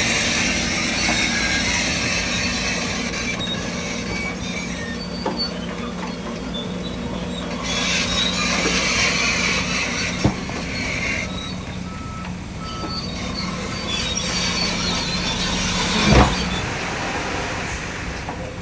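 Heavy diesel earthmoving machinery at work: a steady engine hum under metallic clanking and squealing, typical of a crawler bulldozer's tracks. A few short beeps come about midway, and a loud clank comes near the end.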